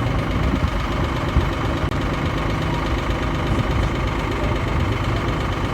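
Canal boat's diesel engine running steadily with an even, rhythmic beat.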